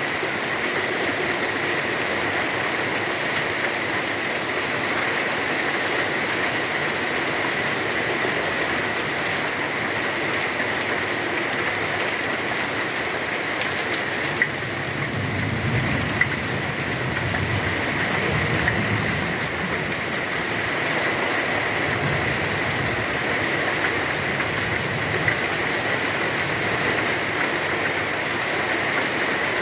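Heavy rain falling steadily. About halfway through, a low rumble comes in for several seconds, and a few sharp clicks sound through it.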